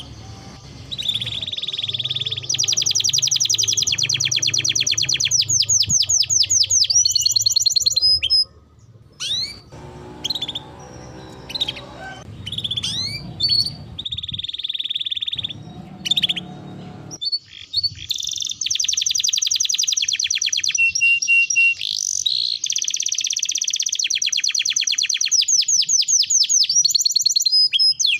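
Domestic canary singing: long runs of fast rolling trills and rapid repeated notes, broken in the middle by a stretch of scattered chirps and short phrases before the trilling resumes.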